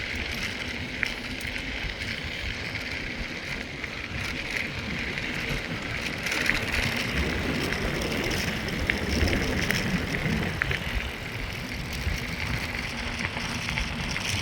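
Mountain bike riding along a rail trail: tyres rolling and crunching on the trail surface with scattered small clicks and rattles, under a low rumble of wind on a hand-held phone's microphone. It gets a little louder about halfway through.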